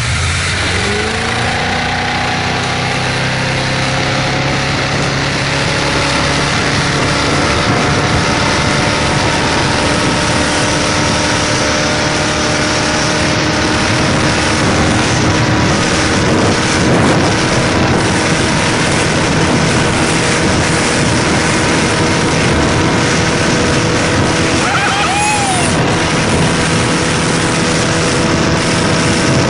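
Speedboat's engine pulling hard as it rises in pitch over the first couple of seconds, then running steadily at high speed with the rush of wind and water.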